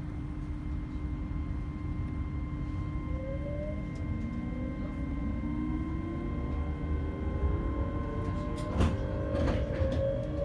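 Inside the passenger saloon of an LNER Class 801 Azuma train pulling away, the traction motors' whine rises slowly in pitch over the low rumble of the running gear as it picks up speed. Two sharp knocks come near the end.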